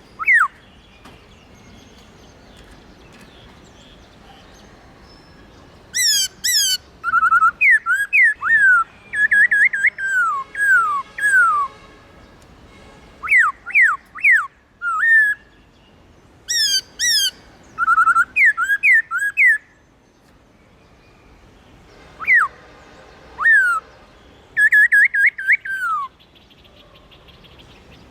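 Black-throated laughingthrush singing loud phrases of clear whistles, each note sliding quickly downward, in bursts of several notes with pauses of a few seconds between them.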